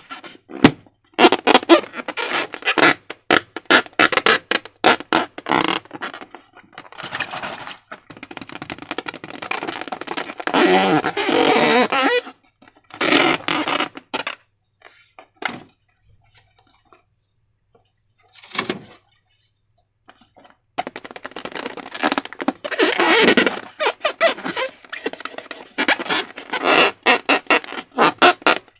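Slime being squished and worked by hand: quick runs of wet squelching and sticky popping clicks. The sounds stop for several seconds about halfway through, apart from one short squelch, then pick up again.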